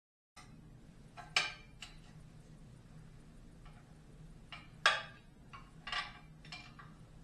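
Scattered sharp metallic clicks and knocks of hand tools against motorcycle exhaust parts, about ten in a few seconds, with a faint steady hum underneath.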